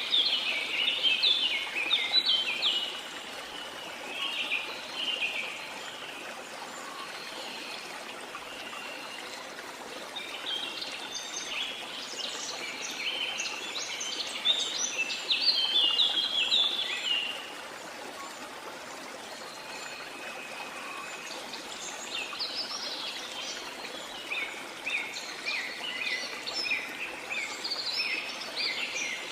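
Rainforest ambience: a steady hiss of falling or running water with bouts of rapid, high bird chirping. There are three bouts, near the start, in the middle and near the end, with quieter stretches of water sound between them.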